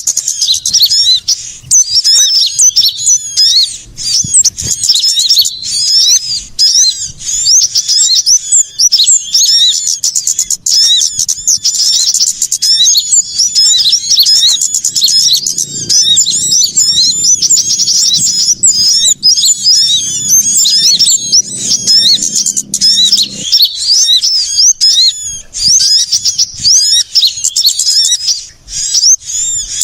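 Bird-lure recording of many small birds calling at once: a dense, busy chorus of rapid high-pitched chirps and trills, the 'ribut' (noisy) mix used to draw small birds such as sunbirds. A faint low hum sits under it through the middle and cuts off suddenly.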